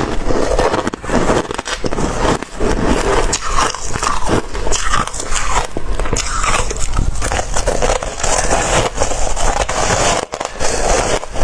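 Close-up crunching of ice being bitten and chewed, a dense run of sharp cracks and crackles that keeps going without a break.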